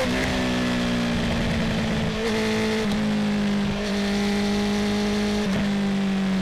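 Honda CB650R inline-four engine breathing through a full Akrapovic titanium exhaust, running at a steady, moderate cruise. The pitch holds nearly level, with a few slight dips as the throttle eases, over a haze of wind and road noise.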